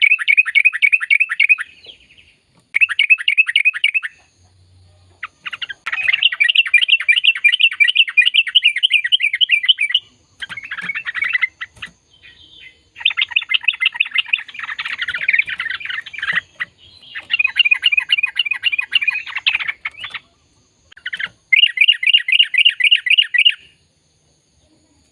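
Yellow-vented bulbul (trucukan) singing in long, fast chattering phrases. The song comes in bursts of quick repeated notes, each one to four seconds long, separated by short pauses.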